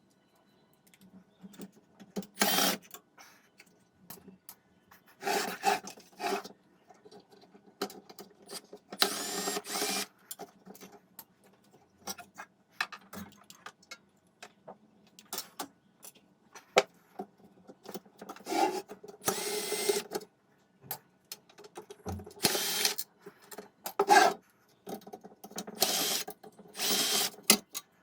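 A small electric power tool, of the drill or screwdriver kind, running in short bursts of about half a second to a second, a dozen or so times, with clicks and light knocks between the runs.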